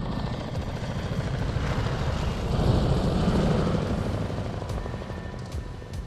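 Helicopter rotors chopping, swelling to their loudest midway and falling away near the end, as in a pass overhead, with music underneath.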